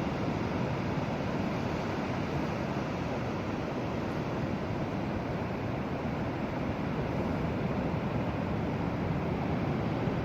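Tasman Sea surf breaking and washing in on the beach: a steady rushing noise, without any single wave crash standing out.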